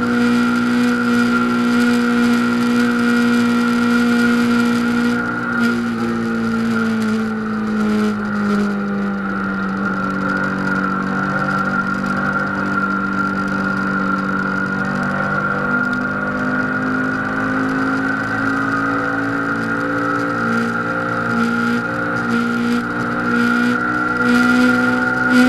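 Honda CBR500R's parallel-twin engine running hard at high revs, with a steady high whine over it. Its pitch sags slowly over several seconds and then climbs back near the end.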